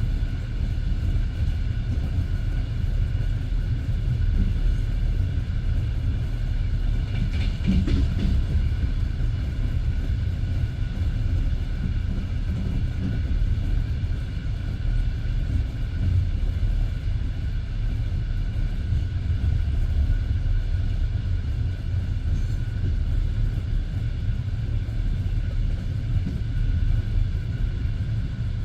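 Passenger railway carriage running along the track at speed, heard from inside: a steady low rumble of wheels on rails with a faint hum above it. It grows briefly brighter and harsher about seven to eight seconds in.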